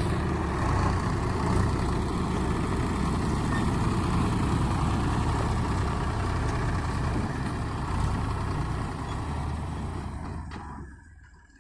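Tractor diesel engine running steadily, its low rumble fading away about a second before the end.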